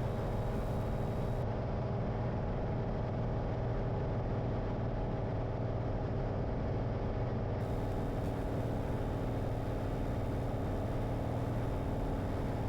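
Light piston-engine aircraft's engine and propeller droning steadily, heard inside the cabin during the landing approach.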